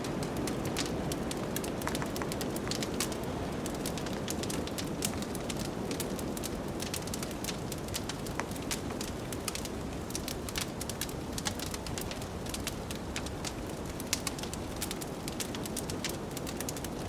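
Wood fire crackling with frequent small sharp pops, over a steady rush of blizzard wind.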